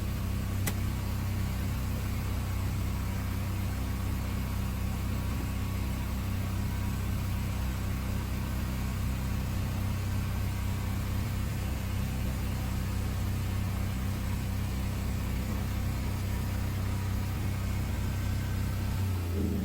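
A motor engine running steadily at constant speed, a low even hum, with a brief pitch sweep downward right at the end.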